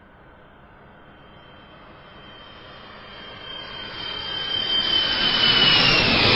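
Jet aircraft flying by: a rushing engine noise with a high whistle that builds steadily louder, the whistle dropping in pitch near the end as it passes.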